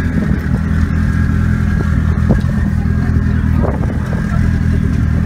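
A car engine idling steadily at an even speed.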